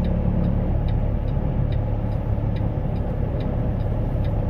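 Semi truck's diesel engine running at low speed, heard in the cab, with the hazard flasher ticking steadily about twice a second.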